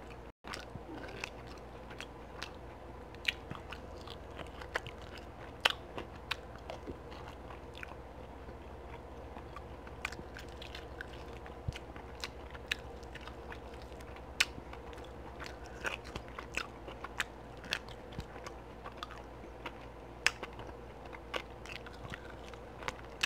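Close-miked eating of barbecue-sauced beef ribs: irregular wet smacks, bites and chewing clicks, over a faint steady hum.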